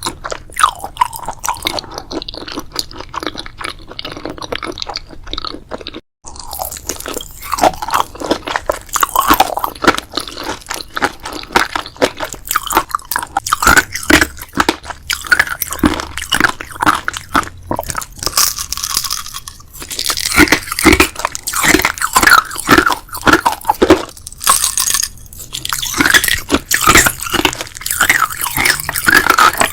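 Close-miked crunching, biting and chewing of crisp food, with a dense irregular crackle. The sound drops out briefly about six seconds in, then the crunching goes on.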